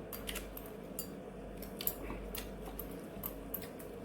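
Light, irregular clicks and soft rustling of a kimbap rolling mat and nori being pressed and rolled up by hand around rice and vegetable filling.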